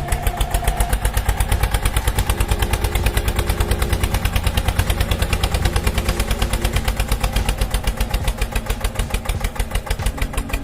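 Tractor engine running at idle with a rapid, even thumping, about eight beats a second.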